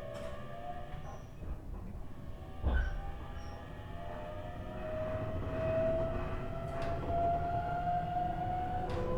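JR East E127 series EMU running under power from its Toyo Denki GTO-VVVF inverter and traction motors, several whining tones climbing slowly in pitch as the train gathers speed. On this car, KuMoHa E127-11, the usual gear whine carries an extra tone a semitone higher, which marks it as an abnormal-noise car. Low running rumble under the whine, with a single thump about three seconds in.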